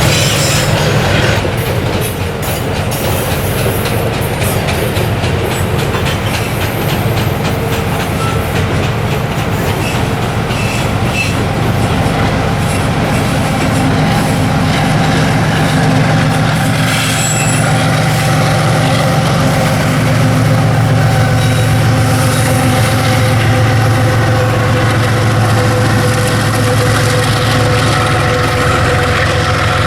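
Freight train rolling past, its wagons' wheels clicking over the rail joints with some wheel squeal. Beneath it runs a steady low diesel drone that grows louder in the second half.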